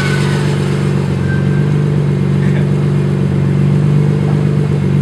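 2005 BMW M3's straight-six, breathing through Supersprint stepped headers and a Bimmerworld 3-inch race exhaust, running loud and even at a steady speed on a chassis dyno. A high falling whine fades out just after the start.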